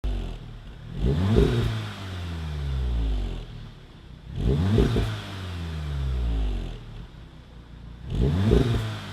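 VW Golf R Mk7's turbocharged 2.0-litre four-cylinder engine blipped three times through a Cobra Sport resonator-delete stainless exhaust. Each rev climbs quickly and falls back slowly to idle over about two seconds.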